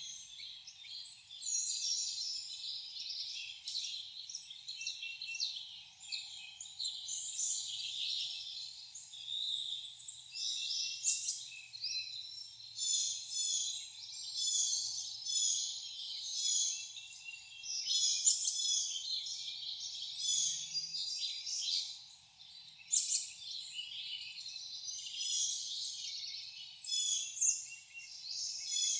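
A chorus of wild birds singing and calling, with many short chirps and trills overlapping throughout.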